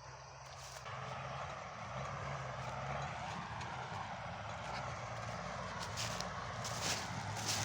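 Truck engine running steadily, growing louder over the first second or so, with a few sharp clicks near the end.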